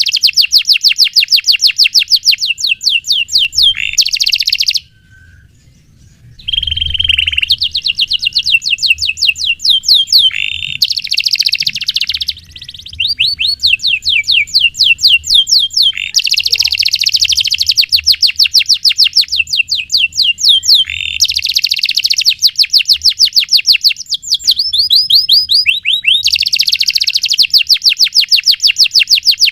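Domestic canary singing long, fast rolling trills of rapidly repeated high notes, phrase after phrase, with a brief pause about five seconds in.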